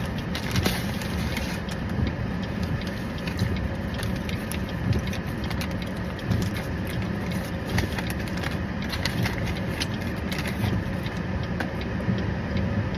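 Car engine idling with a steady low rumble, with scattered small clicks and rustles on top.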